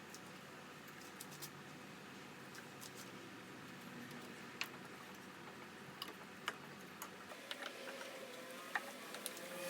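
Faint, irregular light clicks and taps over a quiet background, more frequent in the second half.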